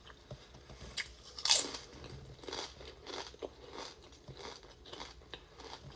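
A person eating close to the microphone: a series of crunchy bites and chewing, the loudest crunch about a second and a half in.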